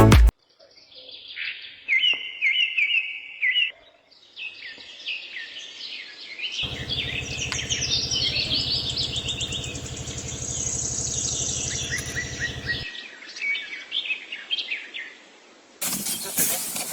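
Small birds chirping and singing in quick repeated phrases. A low steady hum runs underneath for several seconds in the middle, and a louder sound cuts in near the end.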